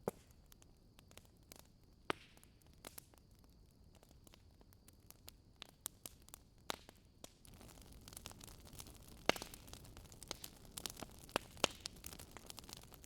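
Campfire crackling and popping: scattered sharp pops over a faint hiss, with a thin, faint high tone in the first half. About seven seconds in, the hiss grows louder and the pops come thicker.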